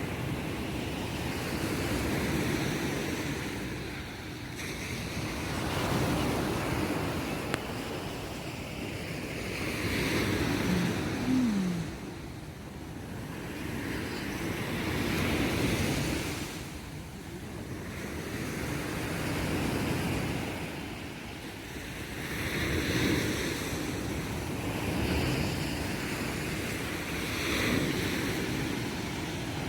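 Small waves of the Mediterranean breaking and washing up the beach, swelling and fading every few seconds.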